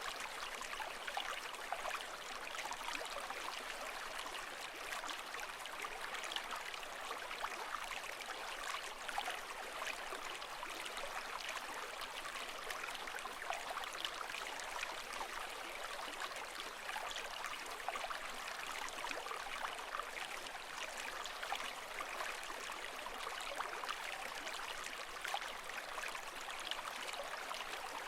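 Continuous running water, a steady wash with fine bubbling and trickling flecks. It holds an even level with no rise and fall of breaking waves.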